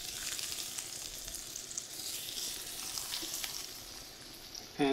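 Breadcrumb-coated yellow jack fillets sizzling in hot olive oil in a cast-iron skillet: a steady hiss with small crackles as the cutlets are laid into the very hot pan.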